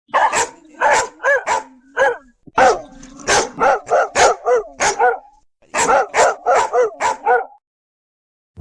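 A dog barking repeatedly, in three quick runs of barks with short pauses between them, stopping about a second before the end.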